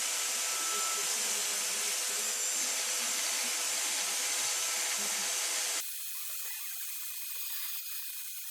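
Electric drill spinning a rotary burr, grinding off leftover weld inside the ports of a cylinder head with a steady, even hiss. It stops abruptly about six seconds in, leaving a quieter hiss.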